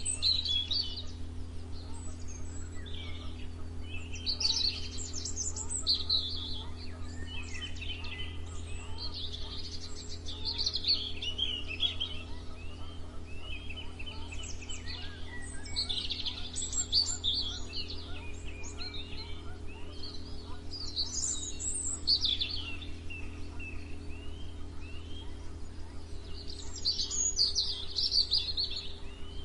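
Several songbirds singing and chirping in overlapping phrases, one burst after another, over a steady low hum.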